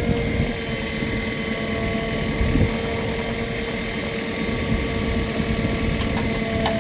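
Heavy diesel engine running steadily at idle with an even, unchanging hum.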